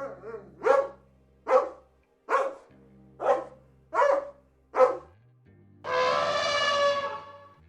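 A dog barks six times, about once a second, over background music with low held notes. Then comes one longer, drawn-out call lasting about a second and a half.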